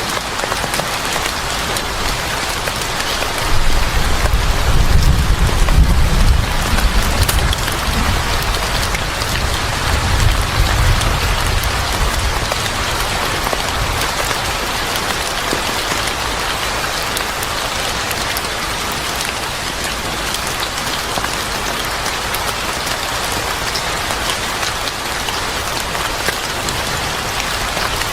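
Steady rain falling. A low rolling rumble of thunder comes in about three seconds in, swells twice and dies away by about twelve seconds.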